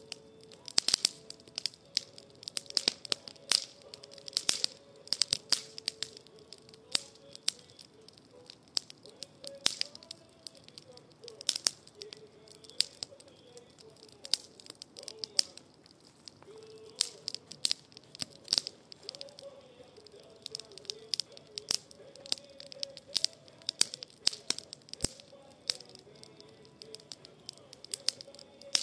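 Wood campfire crackling, with frequent sharp irregular pops and snaps from the burning logs.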